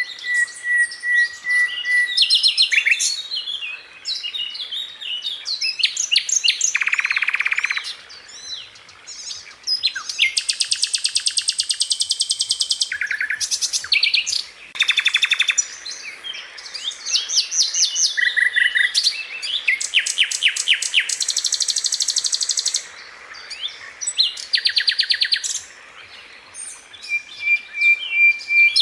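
Sikatan londo flycatcher singing a busy song of fast rolling trills and rattles mixed with short steady whistles, phrase after phrase with brief pauses between bouts.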